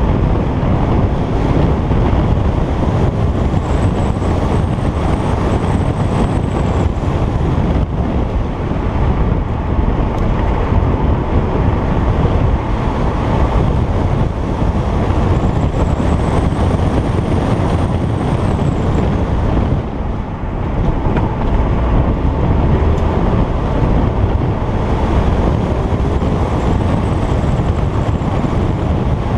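Stock Alfa Romeo Giulietta Quadrifoglio Verde's turbocharged 1750 four-cylinder engine running under way, with wind noise on the microphone. Faint high whistles rise and fall three times, and the sound drops briefly about twenty seconds in.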